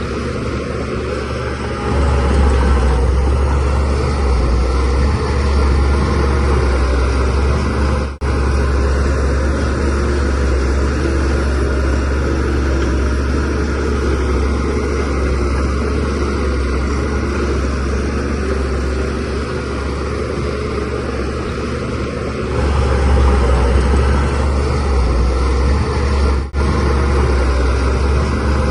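DH17C3PRO bulldozer's diesel engine running steadily with a deep hum. It gets louder about two seconds in and again near the end, as the machine works pushing soil. The sound breaks off very briefly twice.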